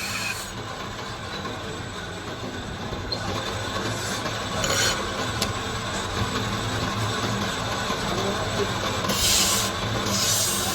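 Workshop machinery running steadily, a continuous rumbling and rubbing noise over a low hum, with brief hissing bursts about five seconds in and again near the end.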